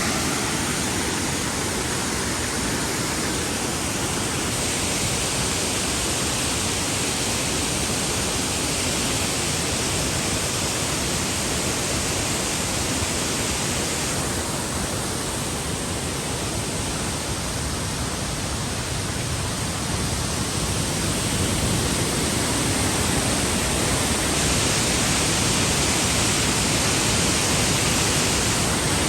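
Waterfall rushing: a loud, steady roar of falling water, its hiss shifting slightly in tone a few times.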